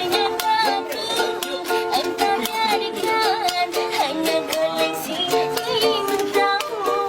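A woman busker singing a melody with vibrato over a quickly and evenly strummed small string instrument.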